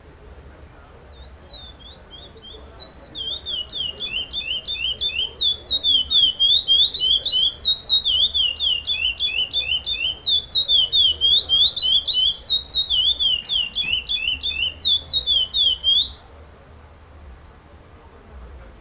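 Curió (chestnut-bellied seed finch) singing a long song of rapid, repeated down-slurred whistles, the curió competition song 'com repetição'. It builds up about a second in, stays loud, and cuts off suddenly a few seconds before the end.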